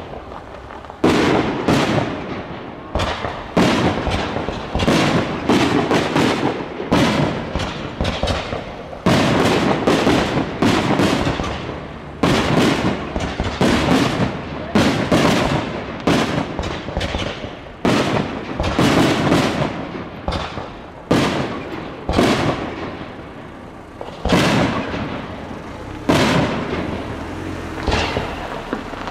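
Aerial firework shells bursting in a steady barrage, one sharp bang about every second, each dying away over a second or so.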